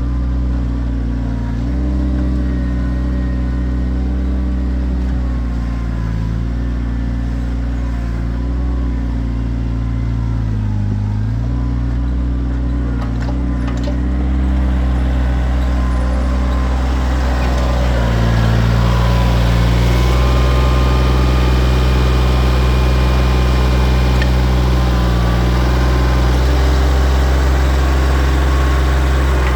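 Kioti tractor's diesel engine running steadily, its pitch dipping and recovering several times as the load changes. It gets louder, with more hiss and rattle, from about halfway through.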